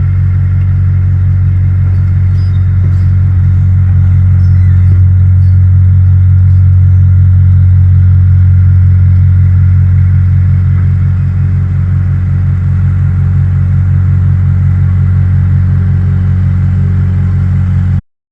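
Bulldozer's diesel engine running steadily, with a few faint clanks. It cuts off suddenly near the end.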